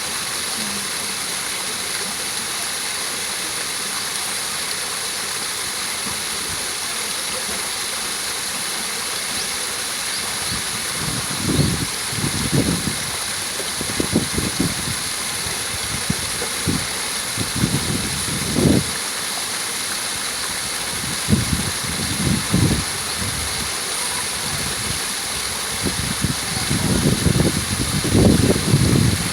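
Small waterfall: water pouring steadily with an even rushing hiss. From about eleven seconds in, short irregular low rumbles come and go over it, and they are thickest near the end.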